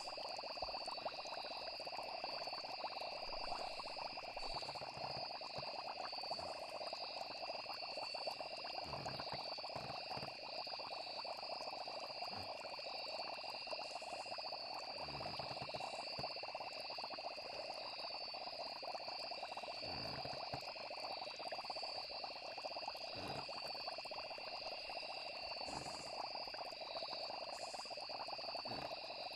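Steady night chorus of frogs and insects, a continuous high trilling with a dense croaking layer beneath, and a few soft low thumps now and then.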